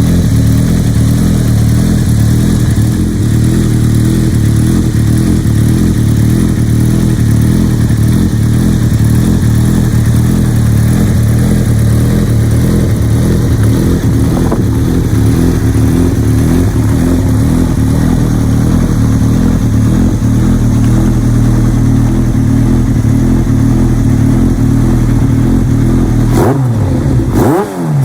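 Yamaha XJR1300's air-cooled inline-four engine idling steadily through an Asahina full exhaust system, then revved briefly a couple of times near the end.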